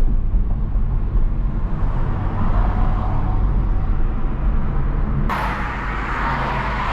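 Honda Civic Type R's turbocharged 2.0-litre four-cylinder engine and road noise heard from inside the cabin while driving, a steady low hum. About five seconds in, a sudden steady hiss comes in over it.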